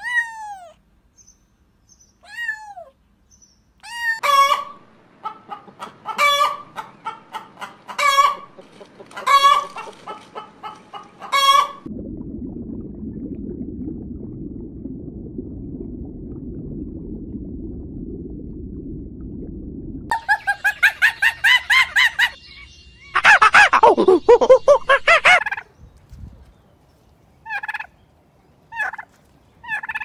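A kitten meowing, short falling calls, then a run of repeated pitched animal calls. A low steady rushing noise follows for about eight seconds. After that come turkey gobbling in rapid pulses and chicken calls, the loudest call coming about two-thirds of the way through.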